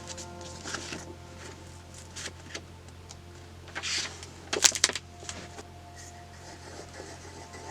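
Desk crafting sounds from working on paper journal pages: small scattered taps and clicks, a short paper rustle about four seconds in, then a quick run of sharp clicks.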